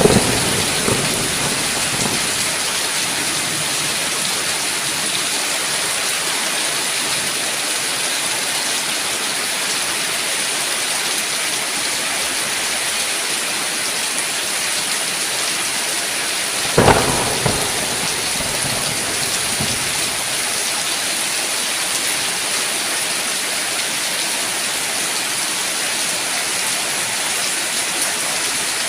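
Steady rain falling, with a short crack of thunder right at the start and another about seventeen seconds in.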